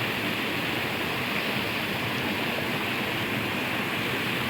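Steady rush of flowing water, a stream or small waterfall running evenly.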